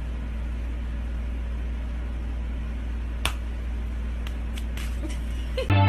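Steady low hum of background room noise, with one sharp click about three seconds in and a few fainter ticks after it; music starts right at the end.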